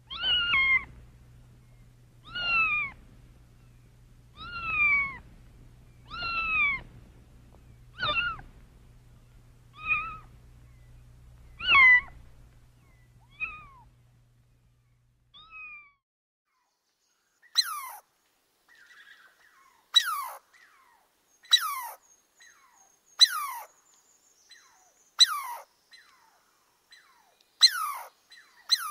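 Domestic cat meowing over and over, about one long arching meow every two seconds, over a low steady hum. About halfway through the meows stop, and after a short gap a palm squirrel starts a string of sharp, falling chirps, one every second or two.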